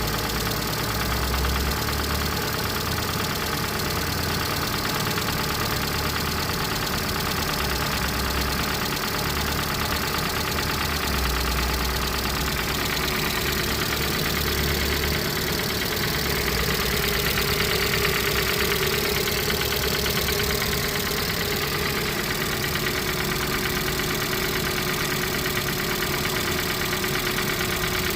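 Lada Granta 16-valve four-cylinder engine idling steadily with a knock in it.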